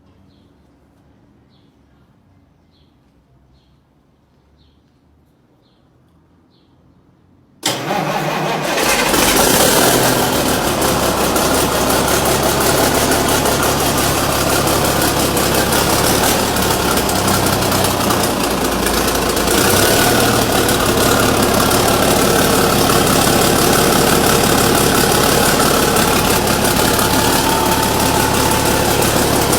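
Quiet with faint high chirps, then about eight seconds in a Cummins Big Cam 315 inline-six diesel engine starts abruptly and runs on loud and steady.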